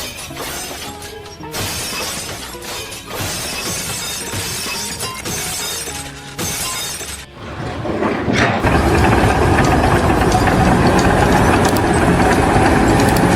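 Glass and breakage crashing over background music as a loaded shelf gives way. From about eight seconds in, a loud steady rumbling noise takes over.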